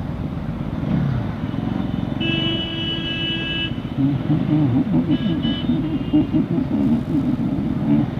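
A vehicle horn sounds in traffic for about a second and a half, then toots twice more briefly, over the steady engine, wind and road noise of a Bajaj Pulsar NS200 motorcycle riding along the highway.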